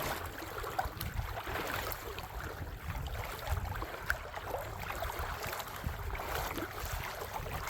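Footsteps crunching and rustling on the creek bank, many small irregular crackles, over a low wind rumble on the microphone.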